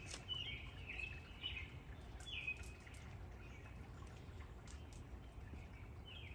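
Birds chirping: short, falling chirps, several in quick succession over the first few seconds and again near the end, over a steady low rumble of outdoor background noise, with a few faint clicks.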